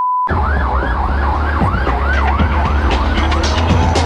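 Ambulance siren on a fast yelp, its rising-and-falling sweeps coming about two and a half times a second and fading after about three seconds, over a loud steady low rumble of a vehicle following it. A steady electronic beep cuts off just as it begins.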